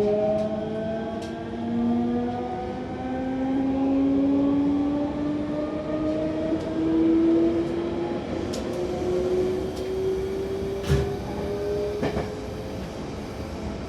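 Hankyu electric train's traction motors and inverter whining in a set of tones that climb steadily in pitch as the train accelerates, with one step up early on, over the rumble of the running gear. A single sharp knock comes about eleven seconds in.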